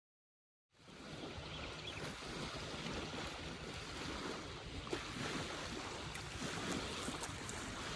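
Wind rumbling on the microphone over water washing at a lakeshore, starting abruptly under a second in after dead silence.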